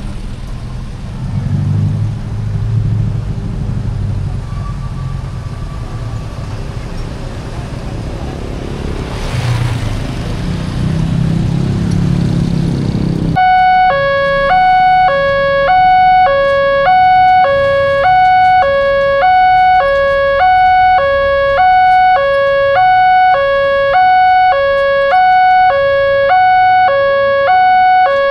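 Road traffic rumbling at a railroad crossing. About halfway through, the crossing's electronic warning alarm starts suddenly: two tones alternating about once a second over a steady higher tone, signalling that a train is approaching.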